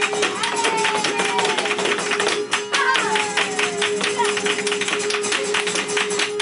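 Flamenco zapateado: a dancer's rapid footwork strikes, many per second, breaking off briefly about two and a half seconds in, over flamenco guitar and singing in a soleá por bulerías.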